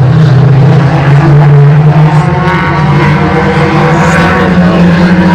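Race car engines running loud and steady, with a higher engine note joining through the middle.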